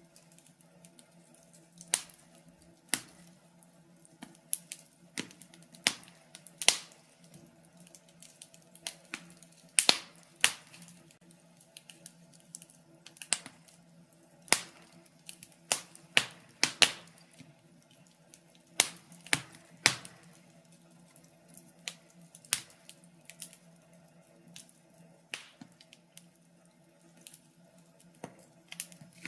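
Wood fire crackling in a fireplace: irregular sharp pops and snaps, one to a few every second or two, over a faint steady low hum.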